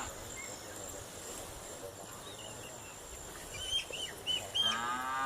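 Outdoor farmyard background with small birds chirping in short high notes. Near the end a farm animal begins one steady, held call.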